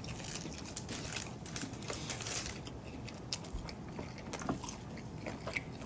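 A person biting into and chewing a chicken snack wrap, with scattered soft clicks and crunches.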